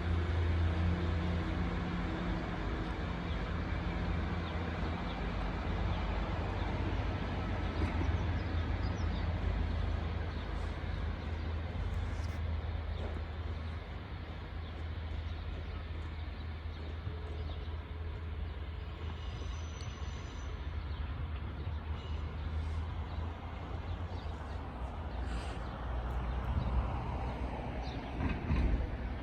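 Two coupled Class 153 diesel railcars pulling away, their underfloor diesel engines giving a steady low rumble that gradually eases as they move off. A swell of rail noise comes near the end.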